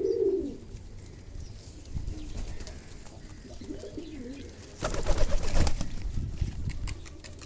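Fantail pigeons cooing: a low rising-and-falling coo at the start and another about four seconds in. A loud, rapid clattering burst lasts about a second, starting near five seconds in.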